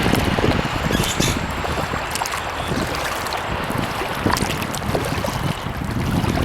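Wind rumbling steadily on the microphone, with scattered small splashes and drips of water from kayak paddling.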